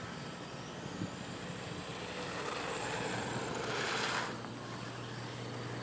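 Electric motor and tyres of a GP Toys S920 1/10-scale RC truck running on pavement, building to a peak about four seconds in and then dropping away quickly.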